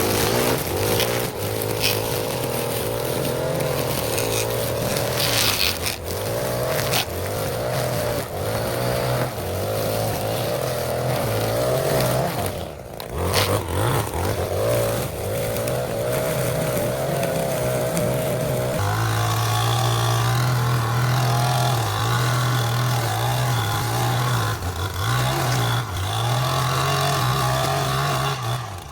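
Small gasoline lawn mower engine running steadily under load while cutting grass, its pitch wavering a little; the tone changes about two-thirds of the way through.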